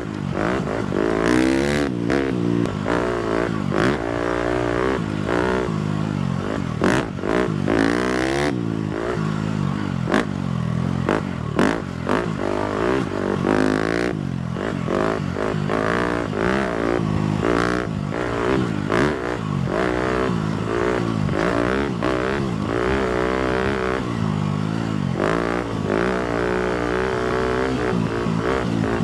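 250cc four-stroke motocross bike engine being ridden, revving up and down over and over as the throttle opens and closes, with occasional brief knocks and clatter.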